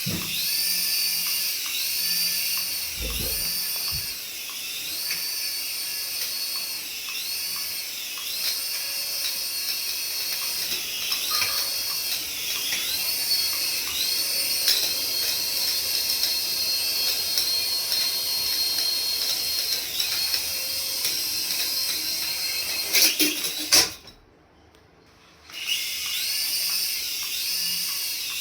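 High-pitched whine of a toy's small electric motor, its pitch dipping and recovering over and over, a little faster than once a second. Near the end it cuts out for about a second and a half, just after a few clicks, then starts again.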